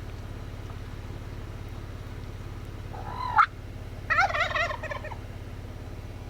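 Wild turkey tom gobbling: a short rising call about three seconds in, then a rapid warbling gobble about a second later, over the steady low hum of the idling truck.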